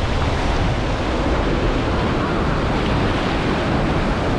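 Steady wind blowing across the microphone, a constant rushing with heavy low rumble, mixed with the wash of open water.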